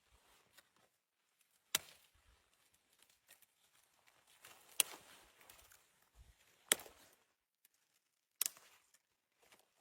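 Four sharp knocks, each well apart from the next, with faint rustling between.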